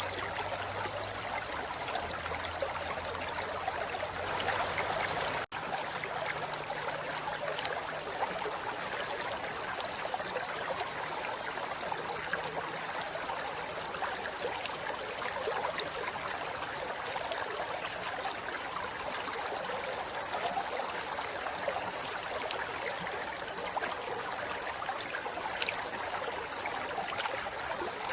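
River water flowing over rocks, a steady rushing and babbling. The sound drops out for an instant about five and a half seconds in.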